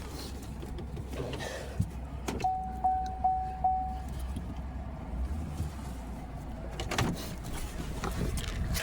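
Pickup truck idling with a steady low rumble, while its warning chime beeps four times in quick succession about two and a half seconds in. A knock comes near the end.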